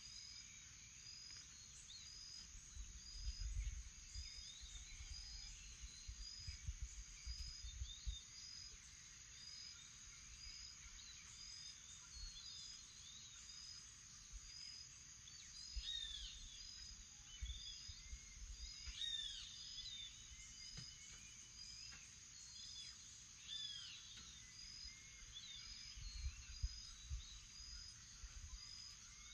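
Faint morning bird chorus: varied rising-and-falling bird calls that grow busier past the middle, over a steady high insect drone and a short chirp repeating about once a second. A few low rumbles come and go.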